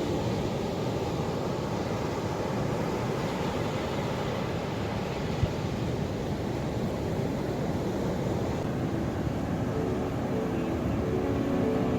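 Ocean waves washing in as a steady low rush, with one brief click about five seconds in. Music with held notes starts to come in near the end.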